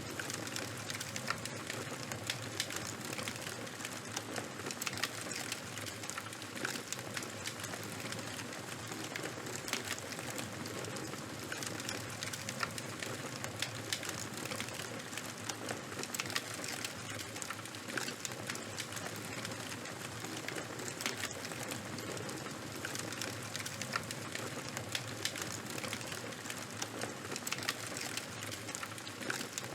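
Charcoal and wood fire burning with a steady hiss and frequent small, sharp crackles and pops.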